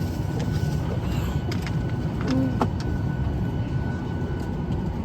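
Steady cabin noise of an airliner parked at the gate during boarding: a low rumble from the air system with a faint steady whine. A few light clicks come a couple of seconds in, along with a brief faint voice.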